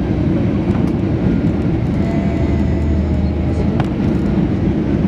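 Airliner cabin noise heard from inside the passenger cabin: a steady low rumble of engines and airflow, with one light click near the middle.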